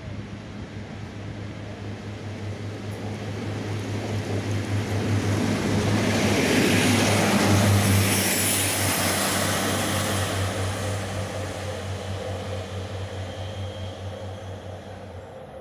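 Pacer diesel railbus passing along the platform: a steady engine drone with rumble and wheel noise that builds to its loudest about eight seconds in, then fades as the train moves away.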